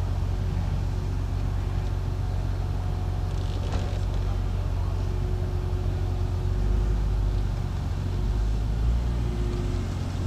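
A BMW's engine running at about 1000 rpm while the car creeps slowly forward, heard from inside the cabin as a steady low hum.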